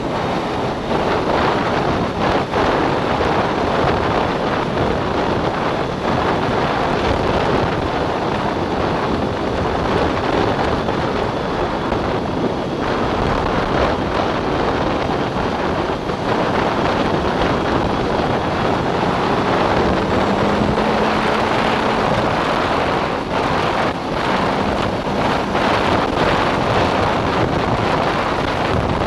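Snowmobile running at speed, its engine almost buried under heavy wind buffeting on the microphone, steady throughout.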